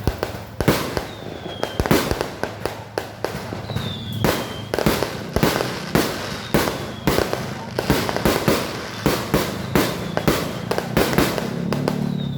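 Fireworks going off in a rapid, irregular series of sharp bangs, several a second, with a short whistle falling in pitch every couple of seconds.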